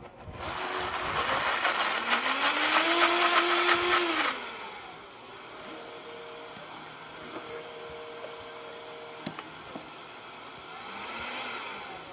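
Countertop blender running on a thick mix of avocados, cacao powder and agave: the motor spins up and runs loud for about four seconds, then winds down to a lower hum. A second short pulse near the end rises and falls.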